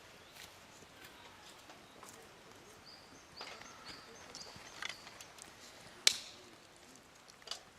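A few sharp knocks or clacks on a quiet outdoor background, the loudest about six seconds in, with faint short high chirps like small birds calling.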